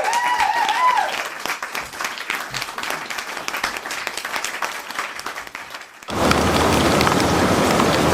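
Rain: a dense crackling patter of drops for about six seconds, with a few brief rising-and-falling tones in the first second, then an abrupt change to a loud, steady hiss of heavy rain.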